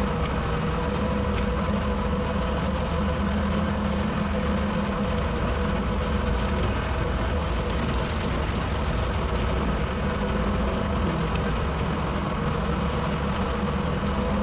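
Tractor engine running steadily while driving a bush hog rotary cutter, with a constant hum and no change in speed.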